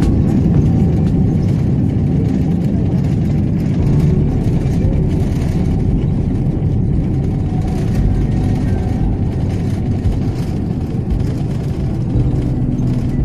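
Airliner cabin noise after landing: a loud, steady low rumble of the engines and the wheels on the ground, easing slightly as the plane slows.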